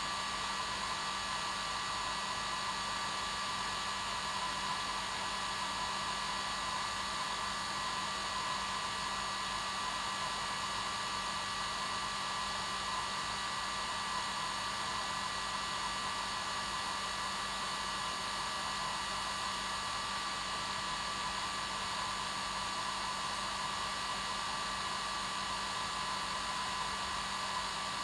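Hair dryer running steadily, a constant whirring hiss with a steady motor hum and whine.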